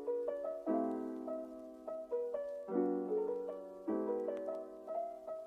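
Gentle background piano music, soft chords struck about once a second and left to ring.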